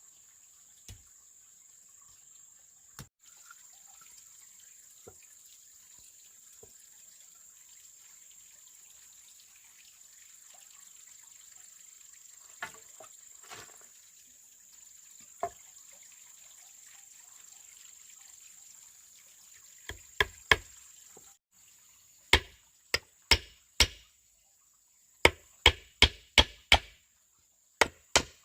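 A quiet stretch with a steady high hum and a few faint knocks. About two-thirds of the way in, a tool starts landing sharp, separate blows on wood or bamboo in quick runs of two to four.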